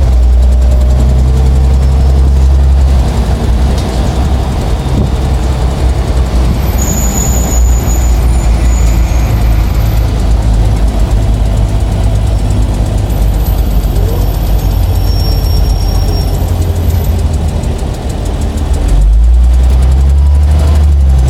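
Scania OmniLink city bus's diesel engine running with a steady low drone. It turns rougher and noisier through the middle, dips briefly, then settles back to the even drone near the end.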